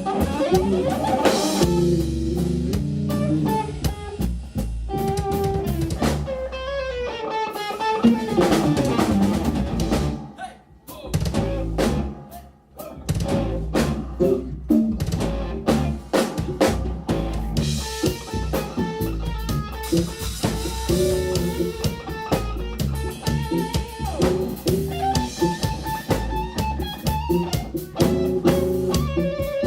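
Live band music: electric guitar over a drum kit playing a fast, busy instrumental passage, with two short breaks where the band drops out about ten and twelve seconds in.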